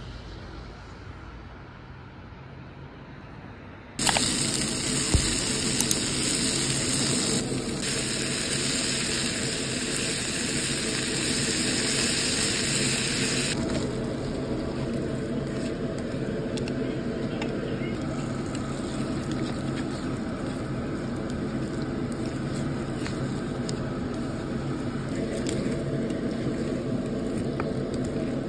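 Vegetables and pork frying in a hot pan: a loud hissing sizzle starts suddenly about four seconds in and eases to a softer, steady sizzle about ten seconds later, over a steady low hum.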